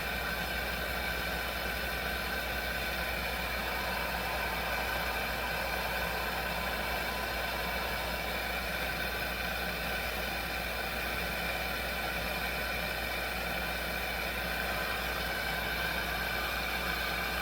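A burner of a Coleman 523 two-burner military stove, a pressurized liquid-fuel stove, burning with a steady, even sound. It is running well on a cleaned generator, while the stove's other burner is not firing.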